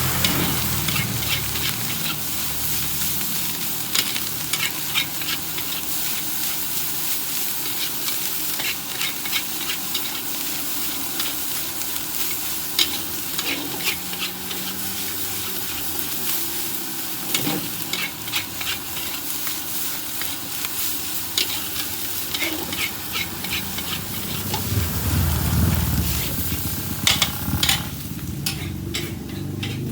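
Nasi goreng frying in a hot wok: a steady sizzle with frequent sharp clicks and scrapes of a metal spatula stirring and tossing the rice. Near the end the sizzle dies down while the spatula strikes continue.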